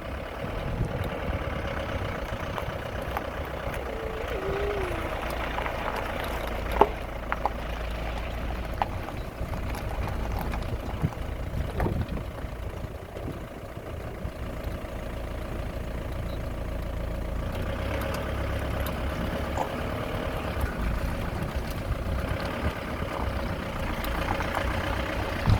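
An engine running steadily with a low rumble, with a few sharp clicks over it.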